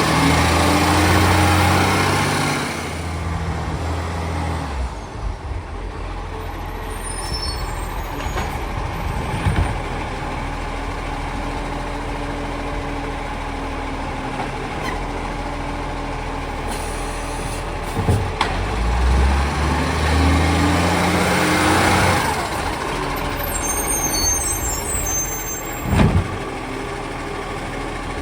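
Garbage truck collecting green-waste bins: the diesel engine revs up and holds twice to power the bin lift and idles between, with sharp knocks of bins against the truck about ten, eighteen and twenty-six seconds in.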